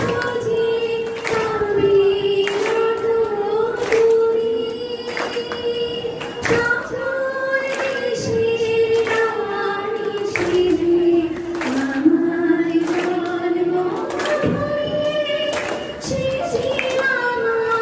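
Singing: voices singing a slow song together, holding long notes and stepping between pitches.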